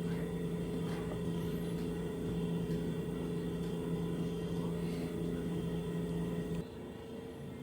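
A steady, even hum with a low tone and a higher one over a faint hiss. The low tone cuts off suddenly near the end, leaving a quieter hiss.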